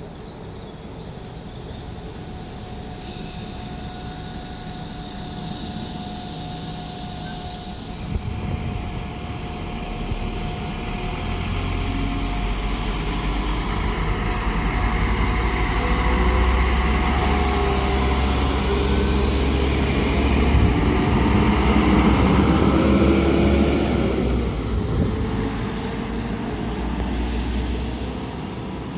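A diesel train passing through: its engine rumble and running noise build up for about fifteen seconds, are loudest for several seconds, then fade away.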